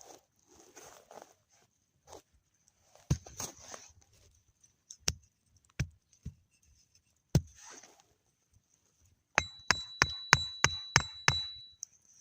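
Sharp knocks and hard strikes, a few seconds apart, then a quick run of about eight blows near the end at roughly four a second, with a faint ringing under them. Softer scuffing sounds come between the knocks.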